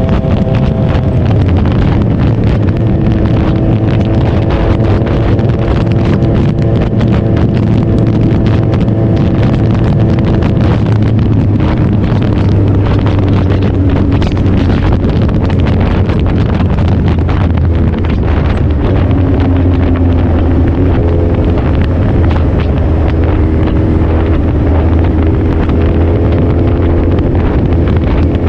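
Suzuki Hayabusa's inline-four engine running under way, its pitch shifting up and down with changes in speed, under heavy wind buffeting on the microphone.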